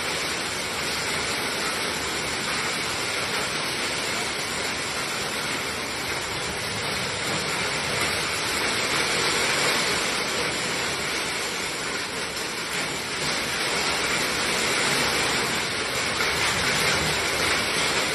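Heavy rain falling in a steady, dense rush during a hailstorm, a little louder in the second half.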